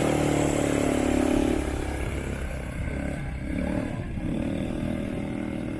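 ATV (quad bike) engine running under throttle as it is ridden away, loud for the first second and a half, then fading and continuing more quietly.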